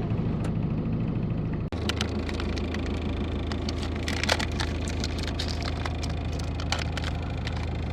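A vehicle engine running steadily with scattered clicks and knocks over it; the sound changes abruptly just under two seconds in.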